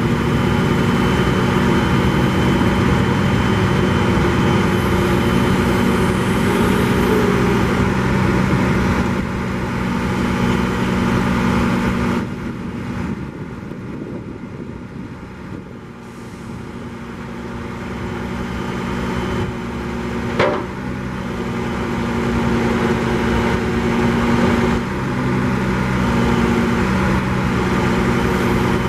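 Diesel engine of a Freightliner M2 grapple truck running steadily. It drops off about twelve seconds in, climbs gradually back to its earlier level over the next several seconds, and there is a single sharp metallic clank about twenty seconds in.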